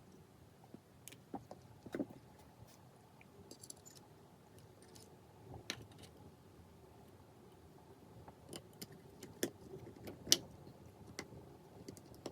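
Scattered small clicks and taps of tools and tiny parts being handled while an iPhone 5s is put back together and a connector is fitted. The louder clicks come about two seconds in, near the middle, and a few more around ten seconds.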